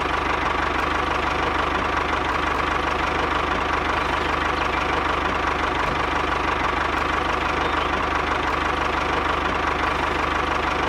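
Small engine idling steadily with an even knocking beat.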